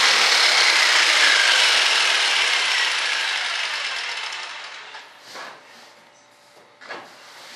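Electric saw fitted with a laminate blade cutting, then dying away over a couple of seconds, followed by two light knocks near the end.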